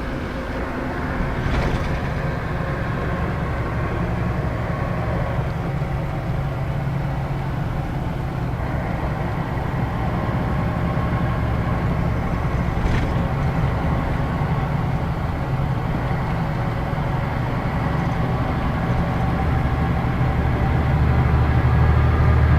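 Scania K113 city bus's diesel engine running under way, a steady low drone with road noise, heard from on board. It grows louder toward the end as the engine takes more load. Two brief clicks or knocks come about a second and a half in and again near the middle.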